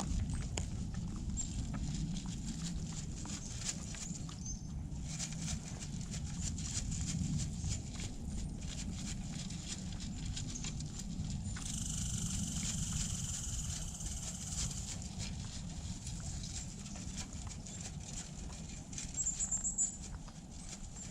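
Moose moving about in snow: irregular crunching, clicking steps over a steady low rumble.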